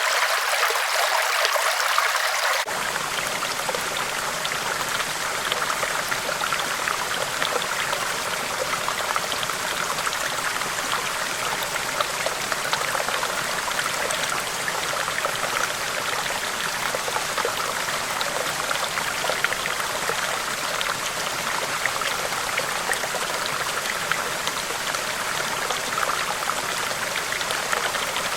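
River water flowing in a steady rush with no pauses. About two and a half seconds in the sound changes abruptly: it grows fuller in the low end and a little quieter.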